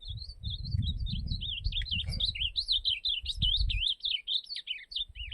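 Ultramarine grosbeak (azulão) singing one long, rapid warbling phrase that ends about five seconds in, over a low rumble on the microphone.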